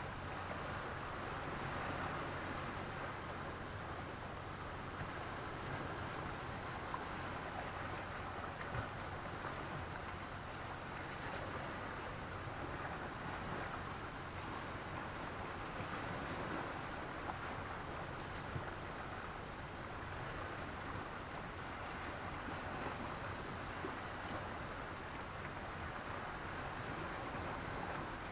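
Sea surf washing onto a beach of sand and black stones: a continuous wash of waves that swells and ebbs gently every few seconds.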